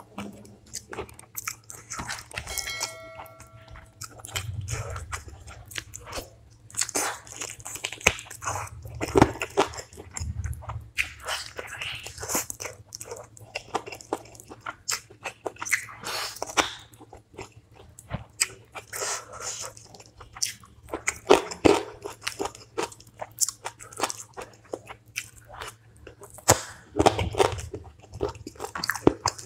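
Close-miked eating: a person biting and chewing food, with many irregular crunches. The meal is chicken curry with rice, dal, green chili and cucumber.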